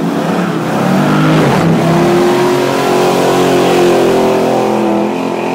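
Car engine revved hard, climbing in pitch over the first second or so and then held at high revs, loud and steady, easing slightly near the end.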